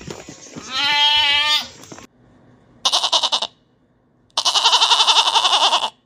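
Goat bleating: one quavering bleat about a second in, then two more loud, rapidly pulsing bleats, the second about a second and a half long.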